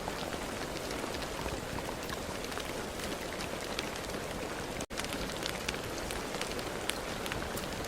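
Steady rain falling, with many individual drops ticking sharply over a constant hiss. The sound cuts out for a split second about five seconds in.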